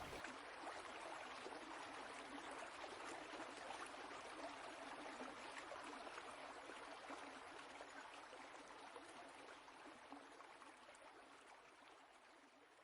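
Faint, steady rushing of a flowing stream, used as a background water sound, fading out gradually over the last few seconds.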